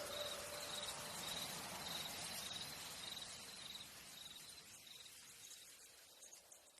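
A cricket chirping in a steady pulse, about twice a second, over a soft even hiss of ambience, the whole slowly fading out.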